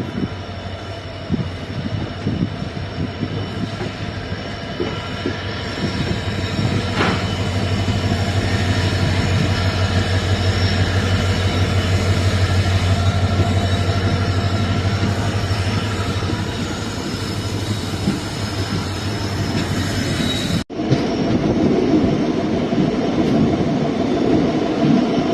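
Train running at speed, heard from a passenger coach hauled by an EMD WDP4D diesel locomotive: a steady low locomotive hum under wheel and track rumble, growing louder over the first ten seconds. There is a single sharp knock about seven seconds in, and the sound breaks off for a moment near the end before the rumble carries on, rougher.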